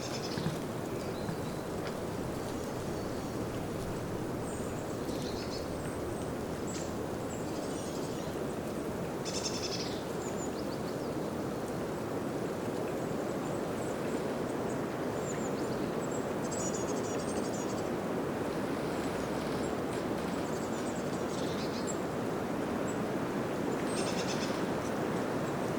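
Wind through a spring birch forest, a steady rush of moving branches that swells a little towards the end, with small birds chirping briefly now and then.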